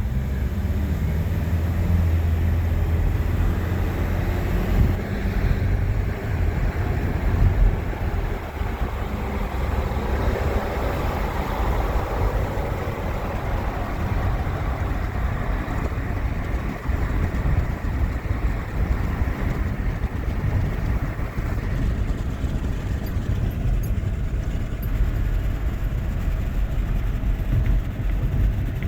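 Steady low vehicle rumble heard from in or at a car, with a broader swell of noise about ten to fourteen seconds in.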